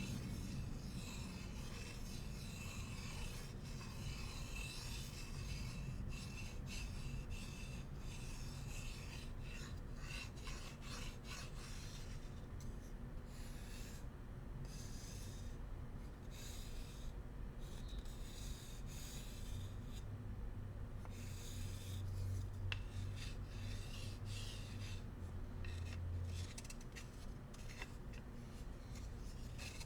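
Bamboo utensils being scratched and rubbed, a dry raspy scraping that comes in irregular short strokes. A low steady hum joins for several seconds past the middle.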